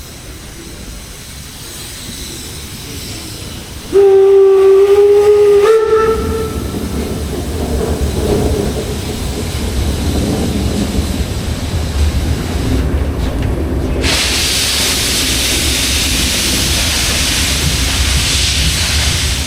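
Whistle of the German class 01 steam locomotive 01 066: one steady note lasting about two seconds that steps slightly higher just before it stops. A low rumble and hissing steam follow, and a loud steady hiss of escaping steam starts about ten seconds later.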